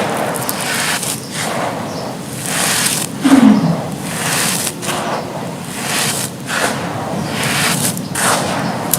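Soft, dusty charcoal-ash bricks crumbling and crunching, in gritty scraping surges about once a second. One louder low thump about three seconds in.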